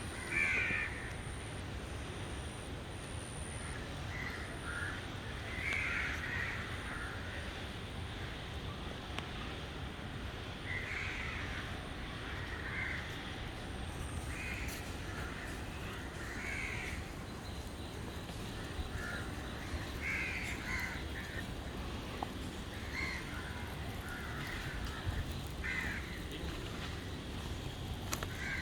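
Crows cawing, short calls repeating every few seconds over a steady low rumble.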